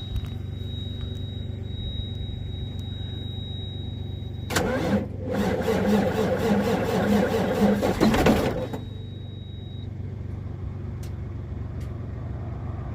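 Detroit Series 60 14.0L diesel in a Freightliner Argosy being cranked by its starter in the cold without the block heater: about four seconds of rhythmic cranking, two to three strong pulses a second, starting about four and a half seconds in and stopping suddenly. A steady low hum and a thin, steady high tone are heard before and after the cranking.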